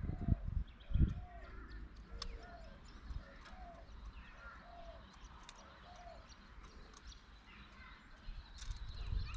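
Birds calling: a steady run of short, arched, mid-pitched notes repeated a little more than once a second, with scattered higher chirps over them. Low thumps come near the start and again near the end.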